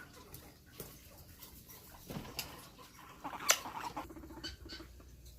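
A guinea pig being held and handled, with faint scattered clicks and scratching, plus a short low trill about four seconds in.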